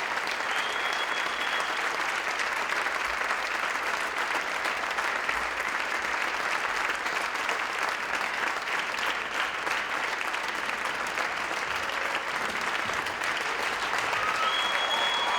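Audience applauding steadily, with a brief high whistle near the start and again near the end.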